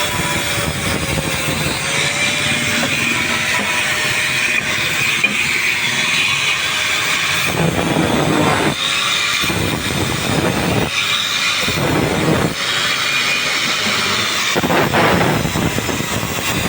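Gas brazing torch flame hissing steadily while brass-brazing a metal pipe assembly, with a faint steady hum behind it. From about halfway, louder rushes come and go several times, each lasting about a second.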